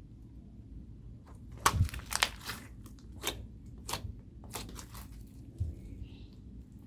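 Homemade slime being squeezed and stretched by hand, giving a series of sharp crackling pops, the loudest about two seconds in, then quieter ones spaced irregularly over the next few seconds.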